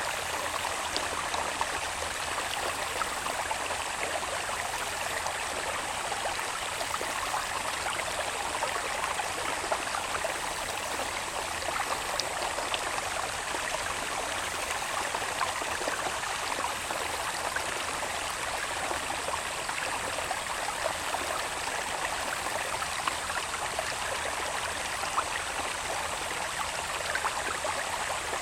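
Water babbling steadily in a small irrigation channel, with a faint steady high-pitched insect sound over it.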